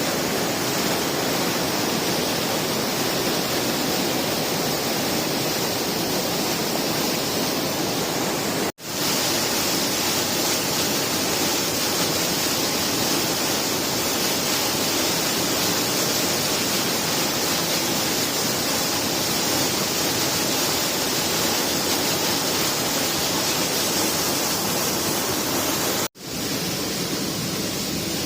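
Steady, even rushing noise with no tone or rhythm, cut off abruptly twice for an instant, about a third of the way in and near the end.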